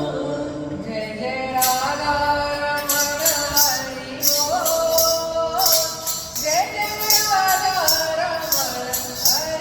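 Devotional bhajan music: a sung melody sliding between notes, with jingling hand percussion shaken in rhythm.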